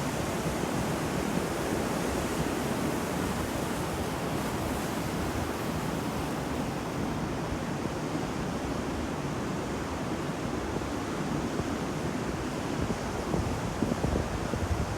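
Ocean waves washing onto a shore: a continuous rush of surf, swelling a little louder near the end.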